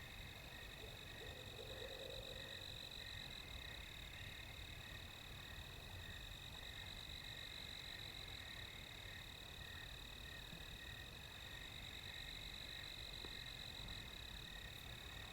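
Night chorus of crickets and other insects: several steady high trills layered together, one of them pulsing a little over once a second, over a low background rumble.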